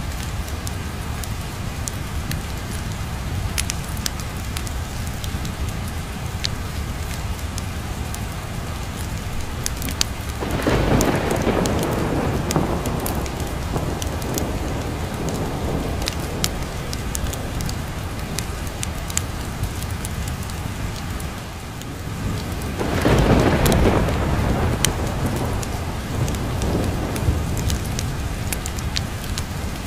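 Steady rain with thunder rolling twice, about ten seconds in and again some twelve seconds later, over the scattered pops and crackles of a wood fire in a fireplace.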